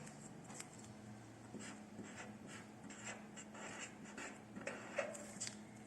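Faint scratching strokes of writing on paper, a word being written out on a hand-drawn chart.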